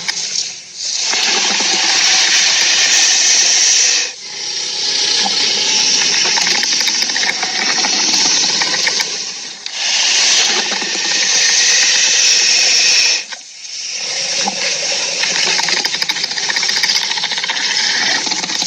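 Harsh, rasping hiss of a creature sound effect for a skunk-like monster, in long stretches of several seconds broken by three brief pauses.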